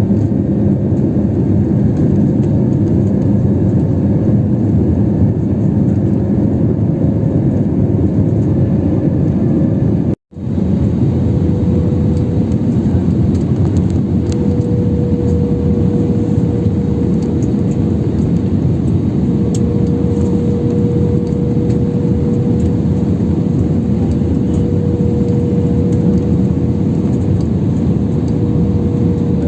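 Steady cabin noise of a jet airliner in flight: the engines and the rushing air, with a faint steady hum over it. The sound breaks off for an instant about ten seconds in.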